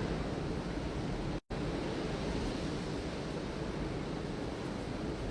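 Steady rushing noise of ocean surf mixed with wind on the microphone, cutting out for an instant about one and a half seconds in.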